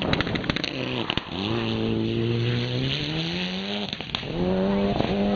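Rally car engine at full throttle: a burst of sharp crackles at first, then the engine note climbs steadily in pitch as the car accelerates, cuts briefly near the four-second mark as for a gear change, and comes back high and steady.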